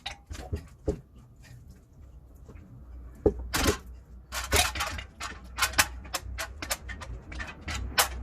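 Irregular metallic clicks and knocks of tools and parts being handled while an engine is worked into a car's engine bay, over a low rumble. The knocks come thicker and louder from about three seconds in.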